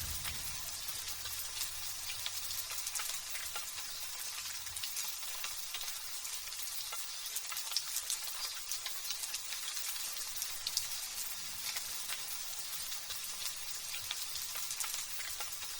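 Light drizzle falling, a steady fine hiss full of tiny crackling drop hits. The low tail of a thunder rumble dies away in the first few seconds.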